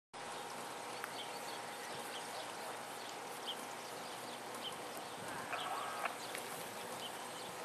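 Freight train approaching at a distance: CSX diesel locomotives and rolling stock heard as a faint steady noise, with light chirps about once a second and a short pitched sound about five and a half seconds in.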